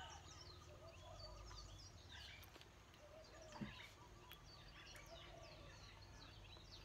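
Quiet outdoor background of faint bird chirps, many short quick calls throughout, with one soft knock about halfway through.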